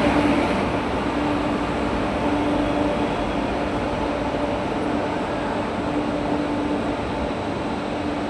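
Train running through a railway station: a steady rumble with a hum that keeps breaking off and coming back.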